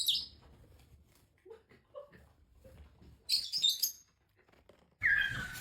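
Parrot chirping: a short high chirp at the start and a quick run of high chirps a little past three seconds in.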